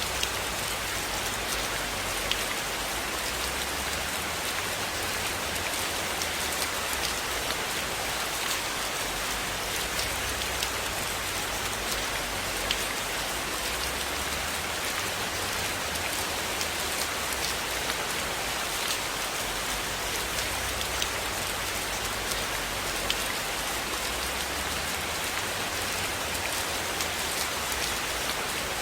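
Steady rain falling on a cabin, an even hiss with many scattered light clicks of drops.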